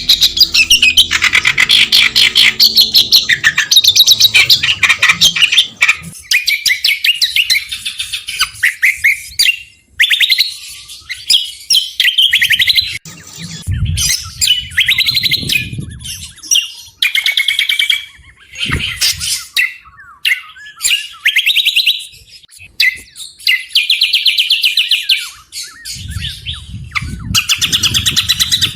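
Small songbird singing loud, rapid chattering trills in bursts of a second or two, separated by short pauses, with a low rumble twice in the background.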